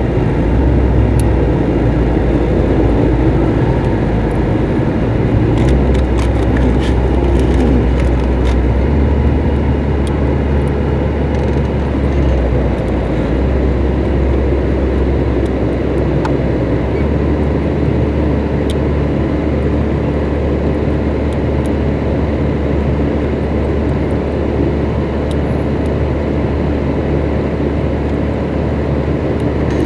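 Truck engine running steadily while driving, a continuous low drone that shifts in pitch a few times as engine speed changes, with road noise.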